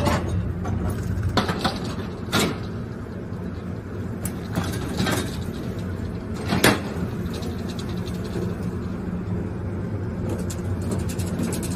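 Steady low hum of a passenger train standing at a station platform, broken by several sharp metallic knocks and clanks, the loudest a little past halfway.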